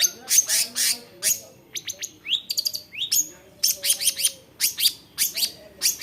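Long-tailed shrike singing: quick runs of sharp, high chirps, each note sweeping downward, in clusters with short gaps between.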